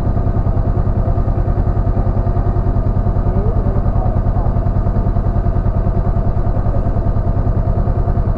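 Honda CB500X parallel-twin engine running steadily with an even, fast pulsing beat and no revving.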